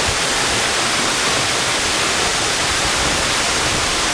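Waterfall in full rainy-season flow, its water crashing down in a loud, steady roar heard from right behind the falling sheet.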